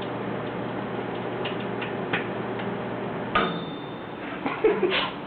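Microwave oven running with a CD inside: a steady hum with scattered crackling clicks as the disc sparks. About three and a half seconds in, the oven stops with a click and a long beep.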